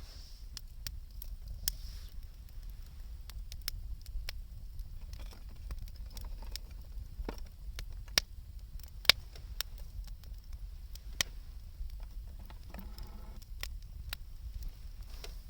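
Wood fire crackling, with irregular sharp pops, the loudest a little after eight and nine seconds in, over a steady low rumble. A short pitched sound is heard about thirteen seconds in.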